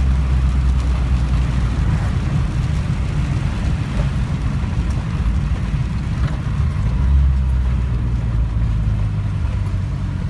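Datsun 1600 (510) four-cylinder engine running as the car drives on a wet road, with a steady hiss from the wet surface. The low engine drone turns uneven about a second and a half in and settles again about seven seconds in.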